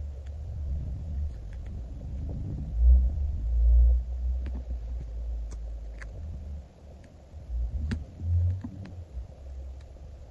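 Low rumbling handling noise from hands and sticker sheets moving against the table, with heavier swells about three and eight seconds in and a few faint small ticks.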